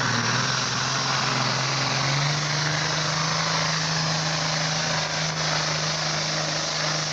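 International 1066 super farm pulling tractor's diesel engine running hard under load down the track. Its note climbs about two seconds in and then holds steady at full throttle.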